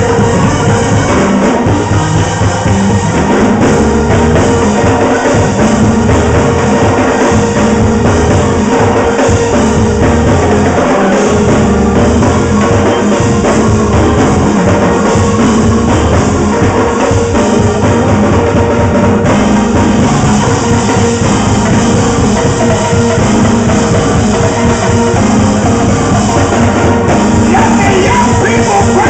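Loud live gospel praise-break music: a band playing a fast, driving groove with drums and tambourine, sustained held tones and some singing.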